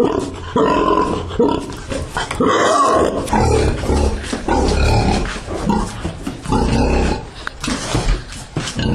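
Pigs grunting in loud, irregular bursts.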